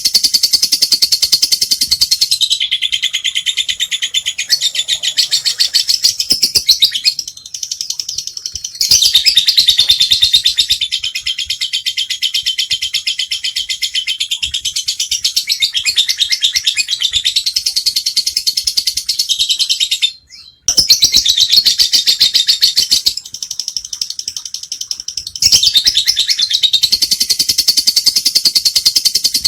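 Lovebird (Agapornis) ngekek: a long, fast, continuous chattering trill of high chirps. It dips briefly about seven seconds in and stops for a moment around twenty seconds in.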